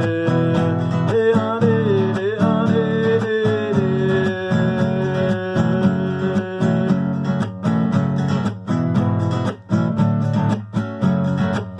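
Acoustic guitar strummed in a steady rhythm, with a held, gliding melody line over it for the first half or so.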